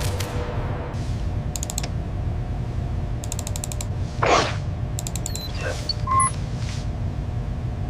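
Steady low mechanical rumble, with three short bursts of rapid clicking, a brief swish about four seconds in, and a short electronic beep about six seconds in.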